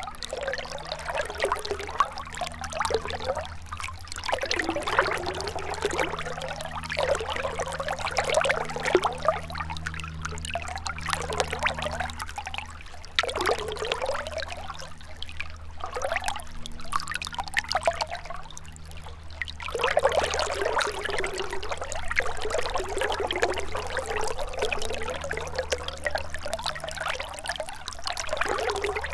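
Gentle river water trickling and gurgling steadily, swelling and easing every few seconds.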